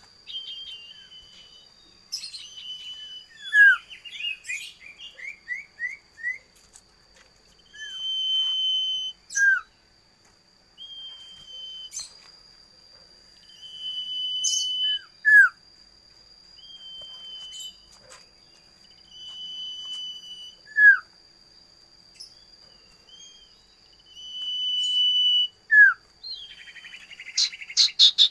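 Common iora (cipoh) calling: a long, level whistle, each paired with a short falling note, repeated about every five or six seconds, with a quick run of falling notes a few seconds in. A steady high tone runs underneath, and a burst of rapid ticks comes near the end.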